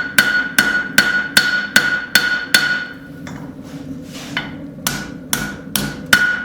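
Hand hammer striking the hot steel of a railroad spike on the anvil to forge in a blade bevel, about two and a half blows a second with a ringing tone after each. The blows pause a little past the middle with a couple of lighter taps, then pick up again.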